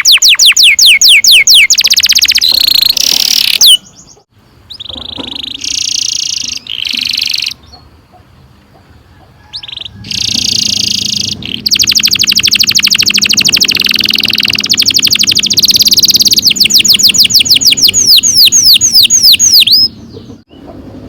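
Canary singing loud, long rolling trills. It opens with rapid series of falling whistled notes, has a few seconds of shorter broken phrases, then sings a long unbroken roll of fast repeated notes that ends in a run of falling sweeps near the end.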